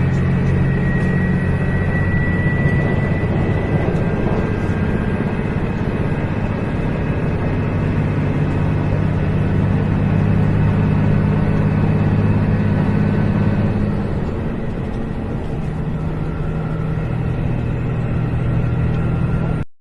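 Stirling engine running steadily with a low mechanical drone. The drone dips a little and shifts in pitch about fourteen seconds in.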